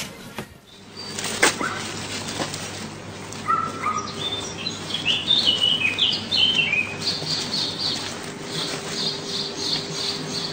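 Birds chirping: a run of short, falling chirps, then rapid, repeated high chirps from about seven seconds in. There is a sharp click about a second and a half in.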